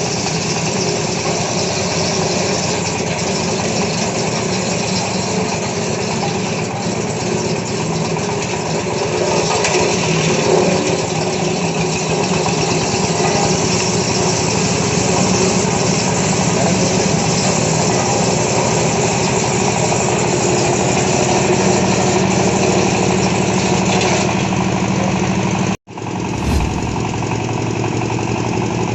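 Wood crusher machine running, a loud steady mechanical drone. It cuts out for an instant near the end and then resumes.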